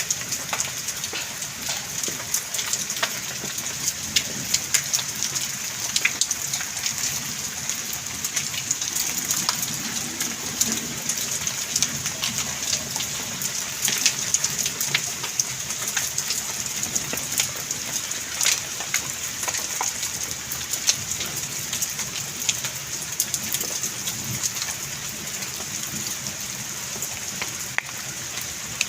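Heavy rain pouring steadily, with many sharp ticks of drops or hailstones striking hard surfaces.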